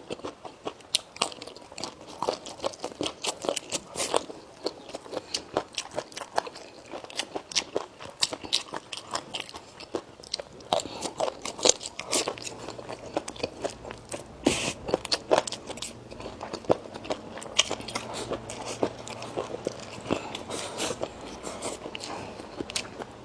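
A person chewing crunchy food close to the microphone: a quick, uneven run of crisp bites and mouth clicks. A faint low hum comes in about halfway through.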